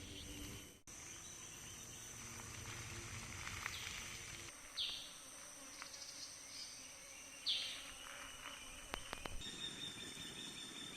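Rainforest insects droning with steady high-pitched tones. Two short, louder falling calls come about five and seven and a half seconds in.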